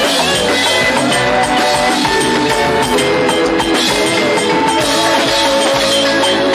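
Live band music driven by a drum kit, with bright tambourine-like percussion under a line of held melody notes.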